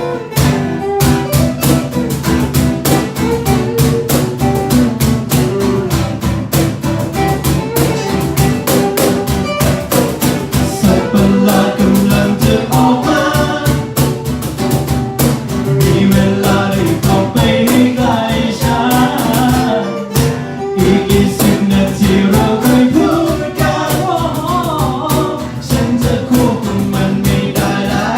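Band music: a song played with a steady drum beat and guitar, with a wavering melodic lead line coming in about halfway through.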